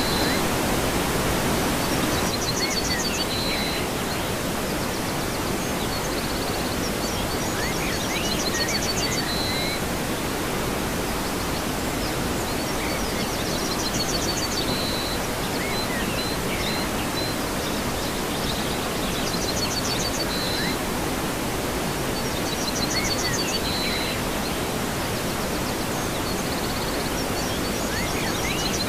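Waterfall: a steady rush of falling water. Short high chirps and trills sound over it, recurring every five or six seconds.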